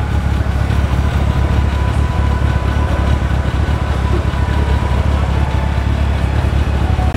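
Car engines running at low revs as cars crawl past, a steady deep rumble with no revving.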